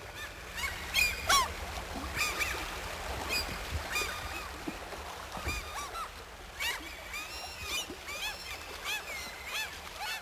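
A group of birds calling: many short, overlapping calls repeating over several seconds, the loudest a little over a second in.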